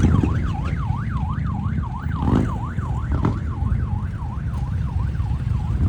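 A siren warbling rapidly, its pitch sweeping up and down about three to four times a second and fading away near the end, over a steady low rumble of engines.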